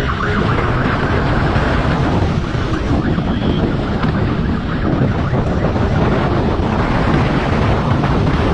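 Steady wind noise rushing over the microphone of a moving vehicle, with vehicle running noise underneath.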